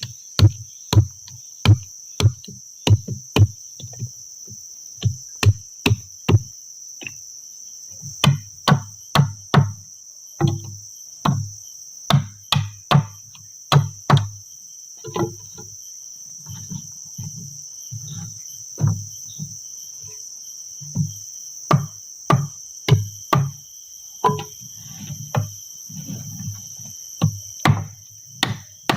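Wood being chopped by hand: sharp knocking blows with a dull thud, about two a second at first, pausing briefly, then more irregular and softer. A steady, high-pitched drone of insects runs underneath.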